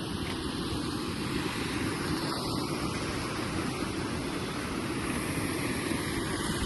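Wind buffeting the camera's microphone: a steady rushing rumble that gusts up and down, with no distinct events.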